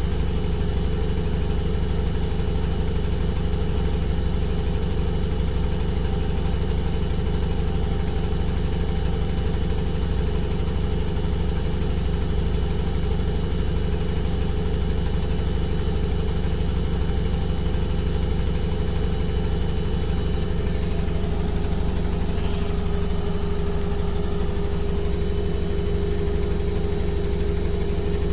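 Washing machine running steadily: a constant low motor hum with a faint fixed whine above it, the tone shifting slightly about twenty seconds in.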